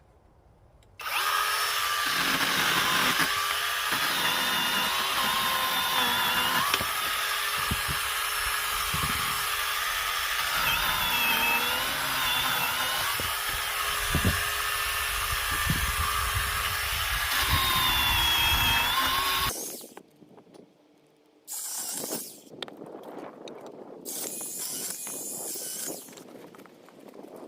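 Chainsaw cutting through firewood logs, its pitch dipping and recovering as the chain bites. It stops abruptly after about 18 seconds, followed by quieter irregular knocks and shuffling.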